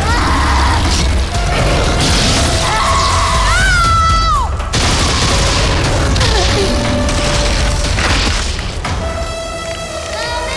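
Film sound mix of planted explosives going off: deep, heavy explosion rumble and booms under a musical score, with a shrill cry rising and falling about three and a half seconds in.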